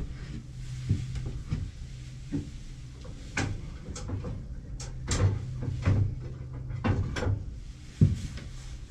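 Scattered knocks and clunks of wooden parts and tools being picked up, set down and shifted about on a workbench, over a low steady hum.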